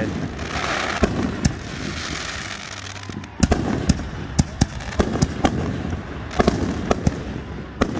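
Fireworks going off in a display: a rapid run of sharp bangs, several a second at times. A crackling hiss fills the first two seconds.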